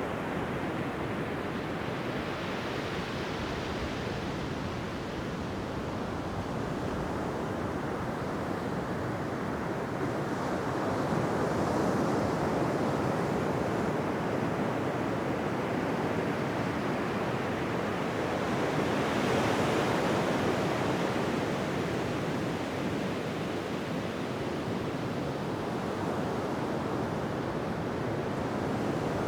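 Ocean waves washing onto a beach: a continuous surf hiss that swells and eases slowly, with fuller wave surges about 12 and 20 seconds in.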